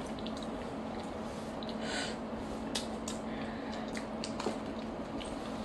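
People chewing and biting pizza close to the microphone: soft mouth smacks and small clicks over a steady low hum.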